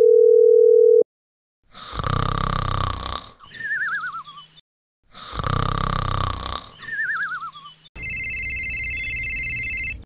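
A steady phone tone that cuts off about a second in, then a cartoon snoring sound effect twice: a rasping snore, then a wobbling whistle falling in pitch. Near the end a steady electronic buzz with several high tones sets in.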